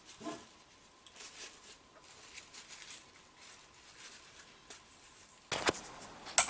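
Faint, soft rubbing and rustling of a rag wiping excess pipe dope off a threaded plumbing fitting, in short scattered strokes. Near the end the background gets louder and a few sharper clicks follow.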